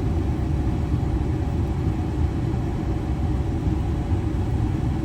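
Steady low rumble inside the cab of a 2016 Ford F-350, its 6.7 L Power Stroke V8 turbodiesel idling while the air conditioning runs.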